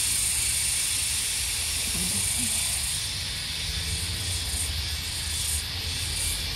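A chorus of cicadas buzzing steadily at a high pitch, with pulsing swells joining the chorus from about halfway in.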